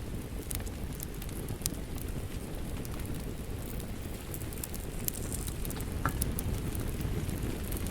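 Crackling log fire with steady rain: a continuous low rumble of rain and fire with sharp, irregular pops and crackles scattered throughout.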